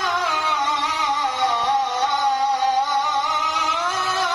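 A male Qur'an reciter holds a long, high melismatic note in tajwid recitation style, drawing out the vowel of "ʿalā" before "Allāh". The pitch sinks slowly and rises again near the end, wavering throughout.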